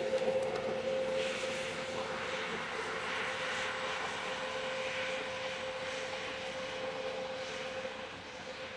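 Airliner engines running, a steady tone over a broad rushing noise that eases off slightly near the end.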